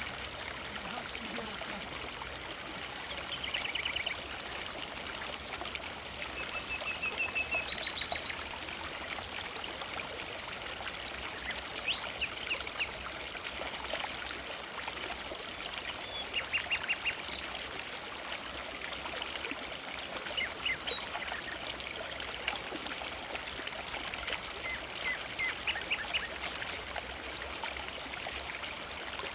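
Forest river flowing with a steady rush of water. Short, rapid bird calls sound over it several times.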